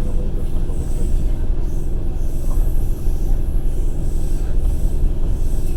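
Passenger train running at speed, heard from inside the carriage: a steady, loud rumble of the wheels on the rails.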